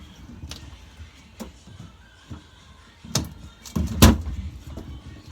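Knocks and clunks of things being handled in a refrigerator: a few light taps, then louder thumps from about three seconds in, the loudest about four seconds in.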